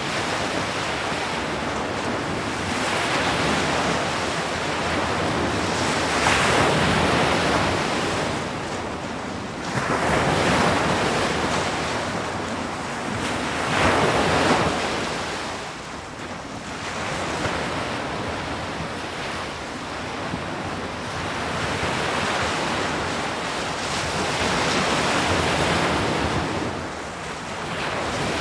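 Ocean waves breaking on a shore, a continuous surf wash that swells and falls back about every three to four seconds.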